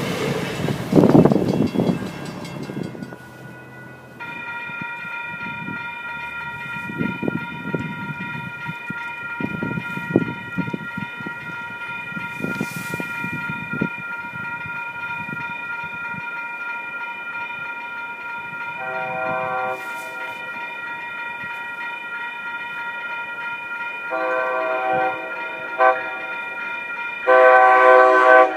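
TriMet WES commuter train: rumble and rail noise in the first few seconds, then a steady high ringing tone through most of the rest. The train's horn sounds briefly about two-thirds of the way in and again in longer blasts near the end.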